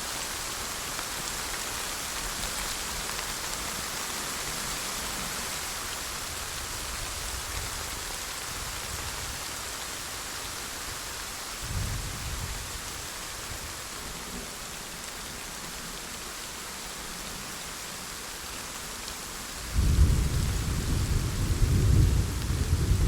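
Steady rain falling, with a short low rumble of thunder about halfway through and a louder, longer thunder rumble starting near the end.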